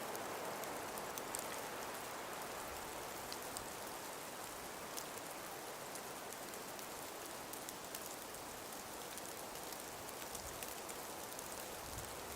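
Steady soft wind through a frosted forest: an even hiss with faint scattered ticks.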